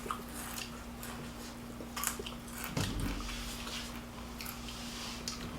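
Close-up eating sounds: chewing with scattered small clicks, a low thump a little before the middle, over a steady low hum.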